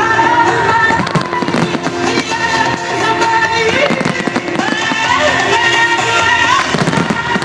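Fireworks display bursting and crackling over loud music, with a heavier boom shortly before the end.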